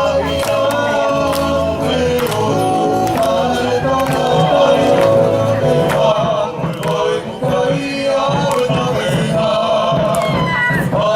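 Group of voices singing in harmony to a steady drum beat: a Tongan song accompanying the dance.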